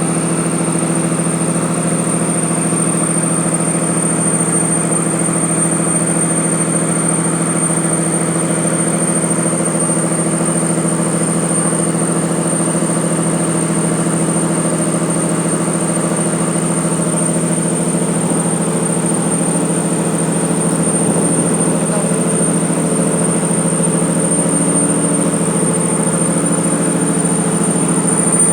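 Boat engine running at a steady speed, an even, unchanging drone with a thin high-pitched whine above it.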